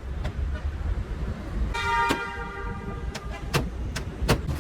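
A short vehicle horn honk, about half a second long, near the middle, over a steady low engine rumble. Several sharp knocks fall before and after it.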